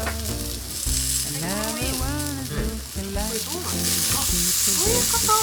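Seasoned beef and pork sizzling as they grill for yakiniku, a steady hiss that grows louder near the end.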